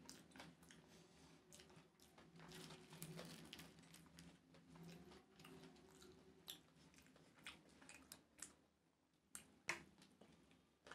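Faint close-up chewing: wet mouth clicks and smacks of someone eating rice and curry by hand, with a sharper smack near the end.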